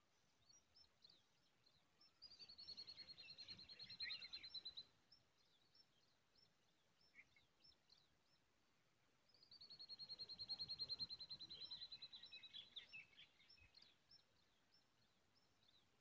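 Birds calling: short, high chirps repeat every half second or so, and two long, rapid trills of a few seconds each fall slightly in pitch, starting about two seconds and about nine seconds in.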